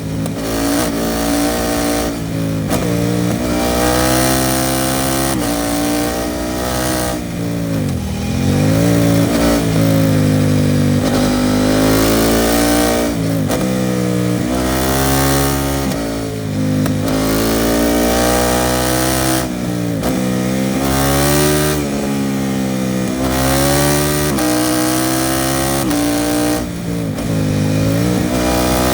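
KTM 790 Duke's parallel-twin engine through an Arrow Pro Race titanium exhaust, riding and accelerating: the engine note climbs and falls back repeatedly as the throttle is opened and closed and gears change.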